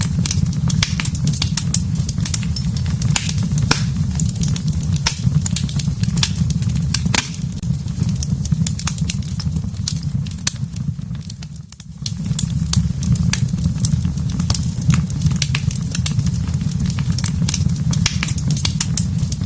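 Fireplace fire crackling and popping with dense, irregular snaps over a steady low rumble of flames. The level dips briefly about twelve seconds in.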